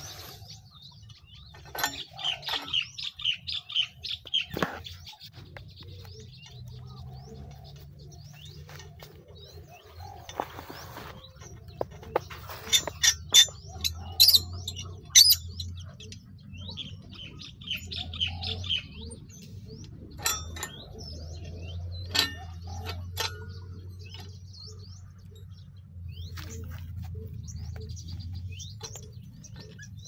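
Birds chirping in quick repeated trills, over a faint steady low hum, with several sharp clicks or knocks, the loudest in a cluster about halfway through.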